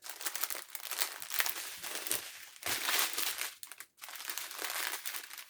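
Plastic packets crinkling as they are handled, in three bouts with two short breaks.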